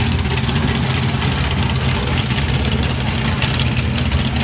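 Truck engine idling steadily, under a constant hiss of background noise.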